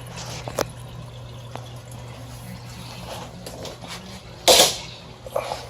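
Steady low hum of shop background, with a few light clicks and one short loud hiss about four and a half seconds in.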